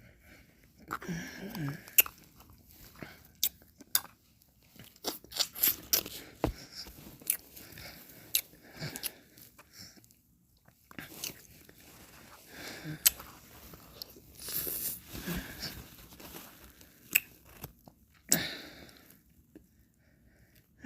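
Mouth sounds of someone eating ice cream: many sharp wet clicks and lip smacks, with short soft licking and slurping passes between quiet pauses.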